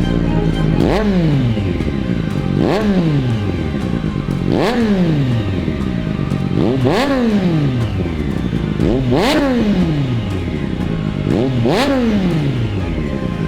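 Triumph Street Triple 765's inline three-cylinder engine revving through a Cobra Sport aftermarket exhaust: six sharp throttle blips about two seconds apart, each rising quickly and falling back toward idle.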